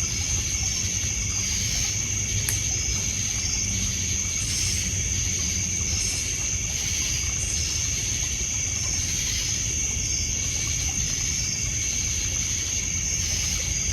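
Night lakeshore ambience: a steady high-pitched chorus of crickets and other insects with short repeated chirps over it, water trickling and lapping at the shore, and a few sharp pops from a crackling campfire.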